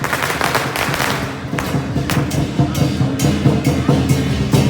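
Loud drum-led festival music, with sharp bangs of firecrackers and fireworks cutting through it about every half second. A dense crackle of firecrackers fills roughly the first second and a half.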